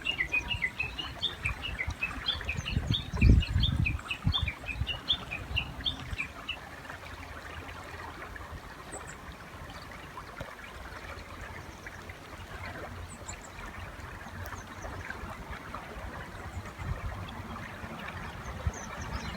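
Japanese bush warbler giving a rapid series of short, high chirping notes for about the first six seconds, over the steady rush of a river. A low thump comes about three seconds in.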